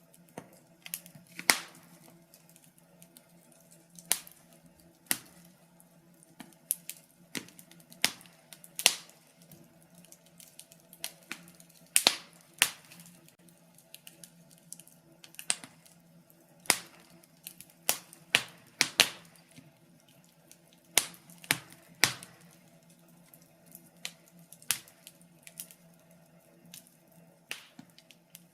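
Wood fire in a fireplace crackling: irregular sharp pops and snaps from the burning logs, a few every couple of seconds, over a faint steady hum.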